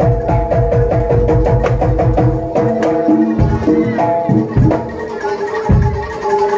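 Live jaranan dor music: a Javanese percussion ensemble with fast, busy drum strokes under steady, repeated pitched metal notes. The drumming thins out with short breaks in the second half.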